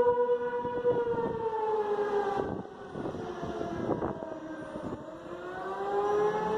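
Outdoor tornado warning siren wailing on one steady pitch. The pitch and loudness sag through the middle and climb back near the end.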